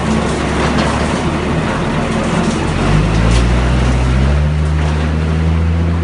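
JZM drum concrete mixer running, its drum turning with a steady low drive hum over dense rattling noise. The hum shifts up in pitch about three seconds in and again a little over four seconds in.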